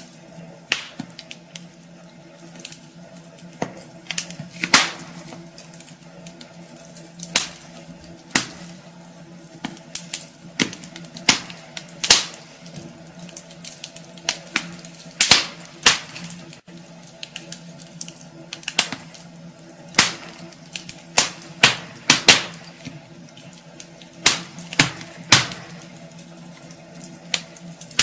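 Wood fire burning in a fireplace, crackling with irregular sharp pops, sometimes several close together, over a faint steady hum.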